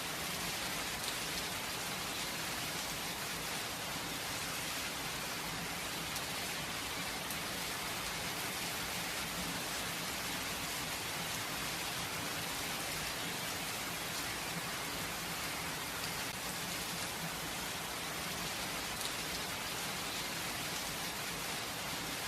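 Steady, gentle rainfall with no thunder: an even hiss of rain falling on surfaces.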